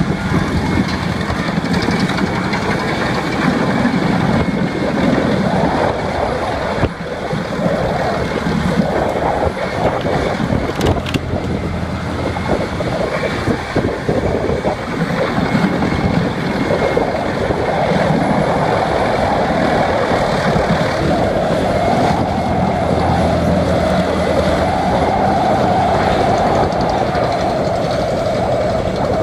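A wood chipper running under load as it chips wood: loud, continuous machine noise that swells and dips unevenly.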